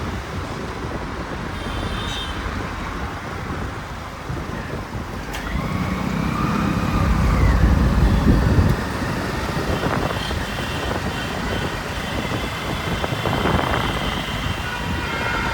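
City road traffic heard from a moving motorbike: steady road noise, a heavier rumble about halfway through as a large vehicle passes close, and a few short horn beeps, with a longer horn starting near the end.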